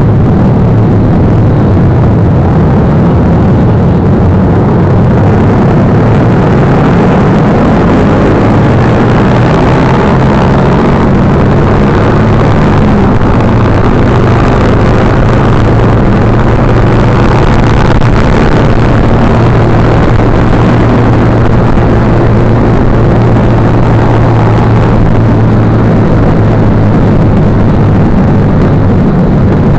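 Motorbike engine running loud and steady, its pitch drifting slightly up and down in the middle, over a constant rushing noise.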